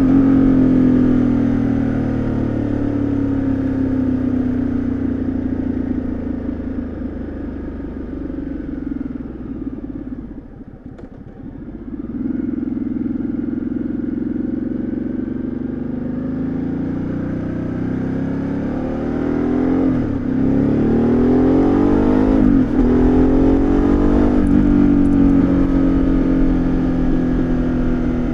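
2013 Ducati Multistrada 1200S's L-twin engine and exhaust heard on board. The engine note falls as the bike slows and drops to a quiet low point about ten seconds in. It then picks up again, with two quick gear changes around twenty and twenty-three seconds in, and rises as the bike pulls away.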